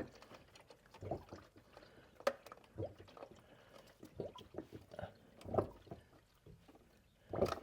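Scattered light knocks and clicks of hands and tools working a spin-on oil filter loose, with engine oil pouring into a drain pan.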